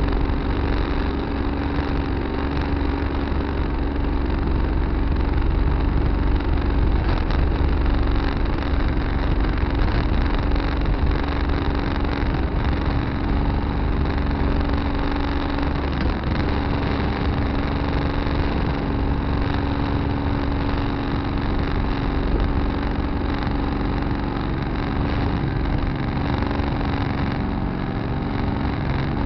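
Tractor engine running steadily at an even speed, with a constant low hum, heard from a dash camera in the cab.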